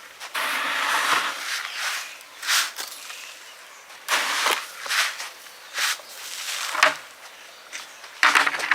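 Shovel scraping and tossing sand and dry cement mix in a series of separate gritty strokes, about one every second, the longest near the start.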